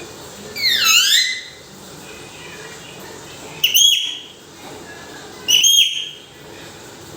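Parrot giving loud whistled calls: one swooping call that dips and rises about a second in, then two shorter, matching calls about two seconds apart.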